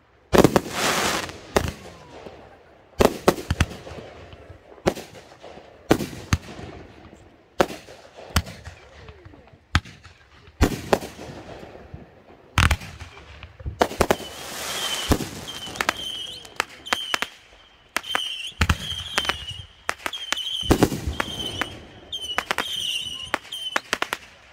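Backyard consumer fireworks going off in quick succession: sharp bangs every second or so, many followed by crackling and hissing tails. From about halfway through, a high warbling note repeats roughly twice a second among the bangs.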